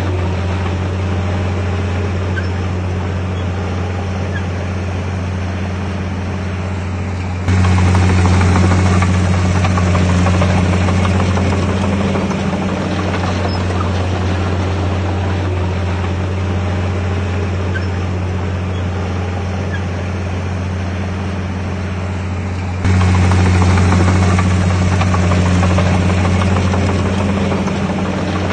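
Heavy diesel engine of earthmoving machinery running steadily with a low drone. It steps up abruptly in loudness twice, about seven seconds in and again about eight seconds before the end.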